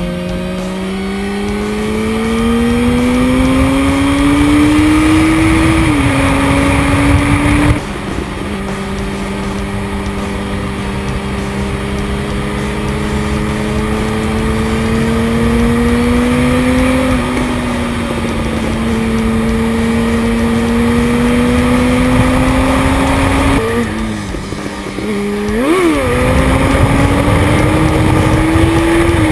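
Yamaha FZ1's inline-four engine pulling along on the road. Its pitch climbs slowly through the revs and steps down at gear changes, with a quick rev blip about 25 seconds in. Wind rushes over the microphone throughout.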